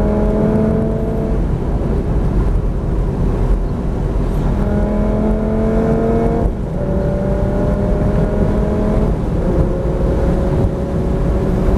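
Lamborghini Gallardo's V10 engine at full throttle, heard from inside the cabin at around 130 to 160 mph, its note slowly rising over heavy wind and road noise. About six and a half seconds in the sound briefly dips and the note drops as it shifts up a gear, then climbs again.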